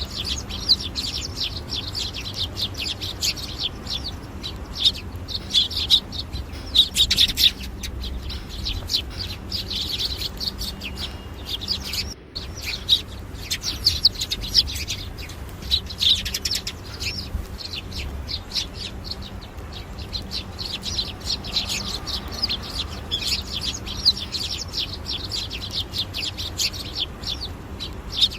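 Many small birds chirping together in a dense, continuous chatter of short high calls, over a low background rumble; the sound briefly drops out about twelve seconds in.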